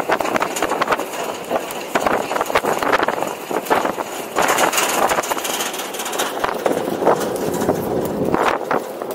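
Open-air 4x4 tour truck driving off-road: the engine runs under a steady noise of the ride, broken by frequent short knocks and rattles.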